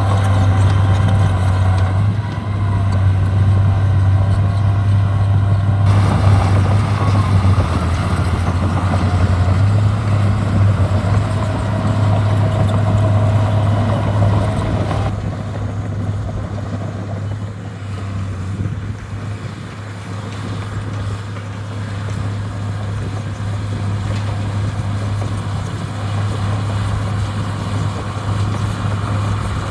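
Heavy diesel earthmoving equipment running: a steady low engine drone, with the higher machine noise shifting abruptly a few times.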